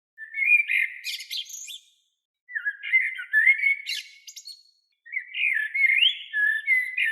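A songbird singing three warbling phrases of quick rising and falling notes, each about two seconds long with short pauses between.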